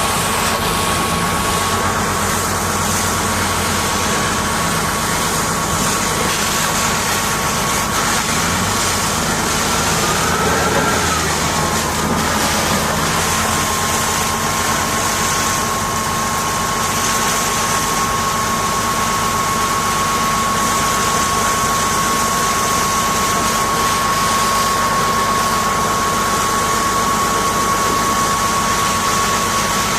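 Engine-driven machinery running steadily under a constant hiss, with a steady high whine that briefly wavers about ten seconds in.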